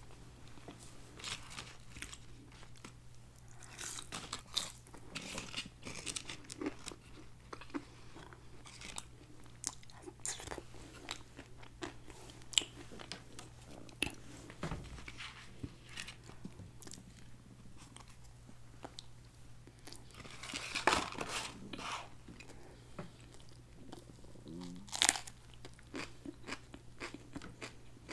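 Close-miked chewing and biting of McDonald's chicken nuggets and fries: scattered soft crunches and wet mouth clicks, with a few louder crunches partway through, over a steady low hum.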